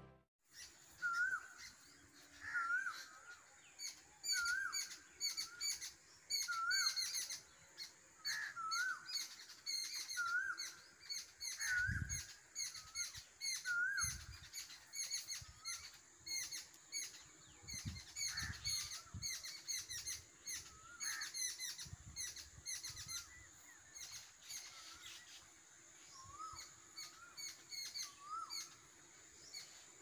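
Songbirds calling and chirping. One bird repeats a short rising-and-falling call about once a second, over many quick, high chirps from other birds.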